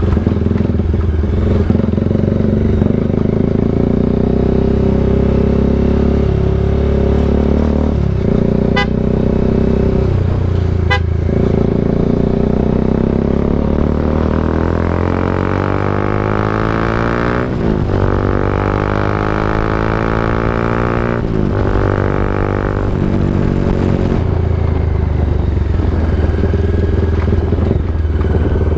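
Bajaj Dominar 400 single-cylinder engine through an SC Project exhaust, heard from the bike while riding. The engine note climbs in pitch under acceleration and drops back at two gear shifts in the second half, over a steady low rumble.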